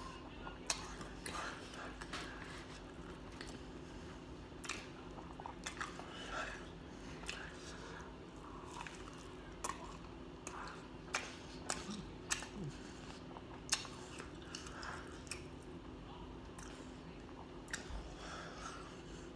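Chewing and wet mouth sounds of a person eating a chicken tender, with many scattered smacks and clicks over a steady low hum.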